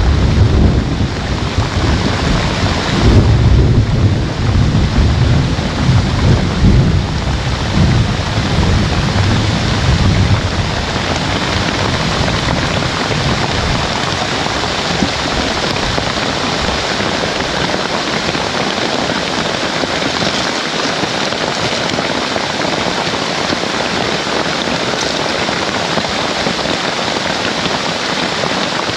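Heavy rain falling steadily, with rolling thunder rumbling over it for about the first ten seconds, loudest a few seconds in. After that the thunder dies away and only the rain goes on.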